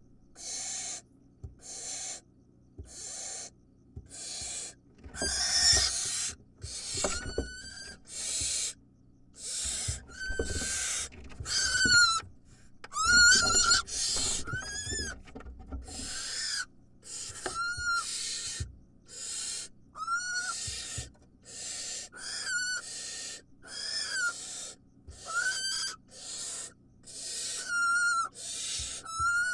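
Barn owl nestlings' hissing, snore-like begging calls, repeated about once a second. Many calls carry a thin screechy tone that rises and falls. The calls get louder, with added scuffling, around the middle.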